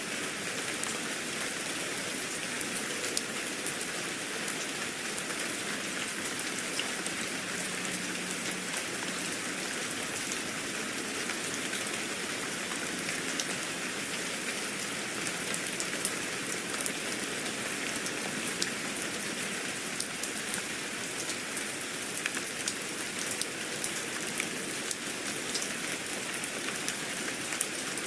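Steady rain, an even hiss with many small drops ticking and pattering on a surface.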